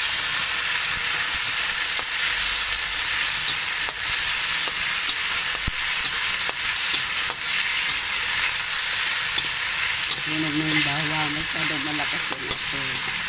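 Beef slices, onion and garlic sizzling in oil in a wok, stirred with a spatula that scrapes and taps against the pan now and then.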